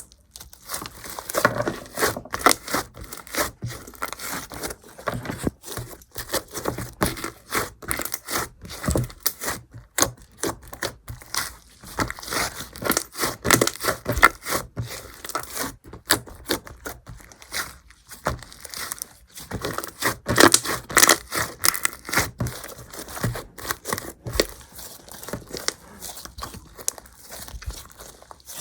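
Hands squishing, pressing and stretching slime, giving a dense run of crackles, pops and squelchy clicks with a few short pauses.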